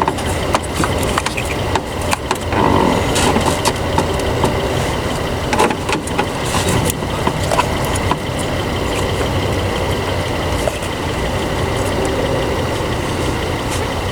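A running engine's steady rumble, with scattered clicks and knocks over it.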